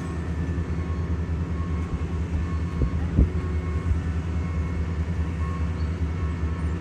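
Heavy asphalt-paving equipment's engine running steadily with a low drone, and two sharp knocks about three seconds in.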